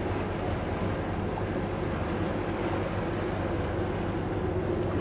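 A boat's engine running steadily under way, a low even drone, with wash of water and wind noise over it.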